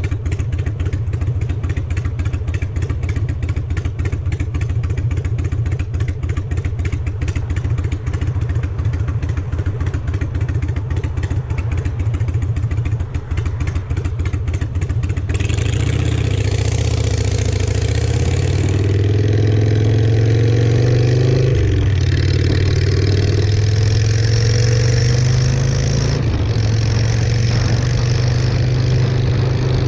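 Harley-Davidson Sportster 883 air-cooled V-twin with shotgun exhaust pipes, running at low revs with an even beat. About halfway through it revs up and pulls through a couple of gear changes, with wind rushing over the microphone.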